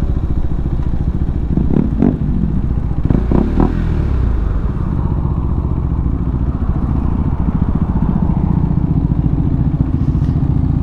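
Motorcycle engine running steadily while riding, with a couple of short rising-and-falling engine notes about two and three and a half seconds in.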